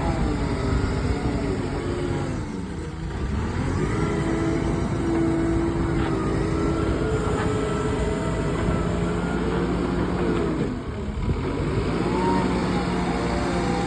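A heavy machine's engine runs under work. Its note sags about two and a half seconds in and again near eleven seconds, then climbs back each time.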